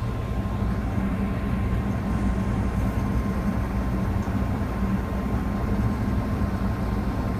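Gas furnace running after being brought back to heat: a steady low hum with a faint thin whine above it.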